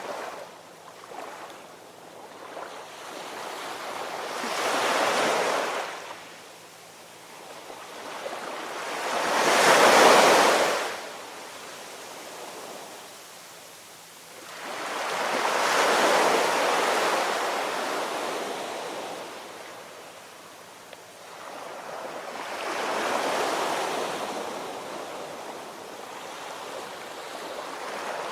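Ocean waves breaking in slow, swelling surges about every five to seven seconds, the loudest about ten seconds in.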